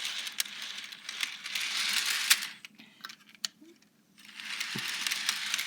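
A Bachmann HO-scale model locomotive running along model railway track: a steady hiss from its motor and wheels with small metallic clicks. It stops for about a second and a half partway through, then runs again.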